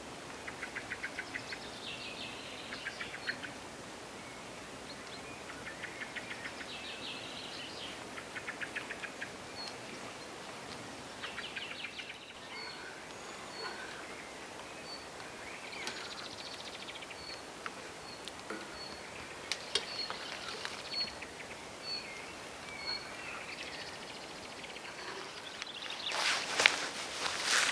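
Songbirds singing in woodland: short trilled phrases repeat every two to three seconds, and a second bird repeats one short high note about once a second through the middle. Near the end, a burst of footsteps in forest litter comes in, louder than the birds.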